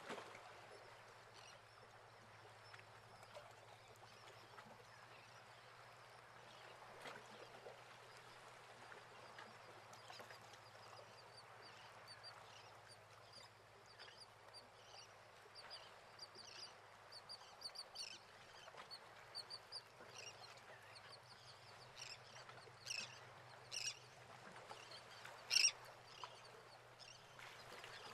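Faint outdoor ambience with bird calls: a run of short high chirps from about a third of the way in, and a few louder short calls near the end.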